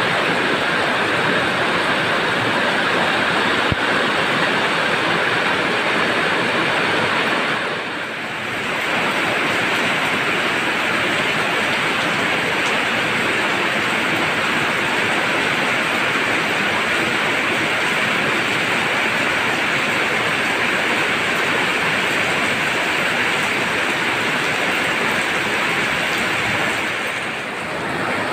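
Heavy tropical downpour: a dense, steady hiss of rain, dipping briefly about eight seconds in and again near the end.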